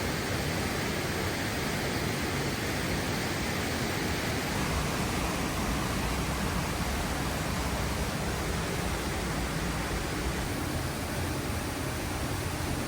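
Steady, even rushing roar of falling water from a waterfall.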